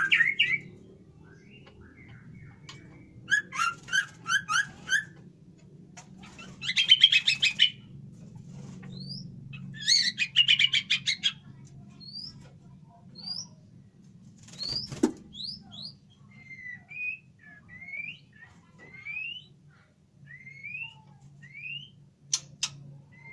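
White-rumped shamas calling: three bursts of rapid chattering notes in the first half, then a string of short, separate rising whistles. A sharp click comes about fifteen seconds in, over a steady low hum.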